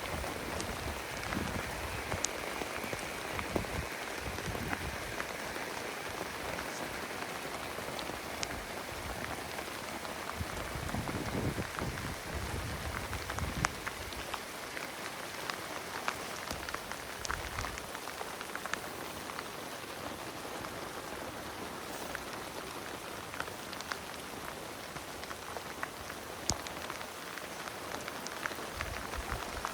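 Steady rain falling, an even hiss scattered with many sharp ticks of individual drops striking the surface.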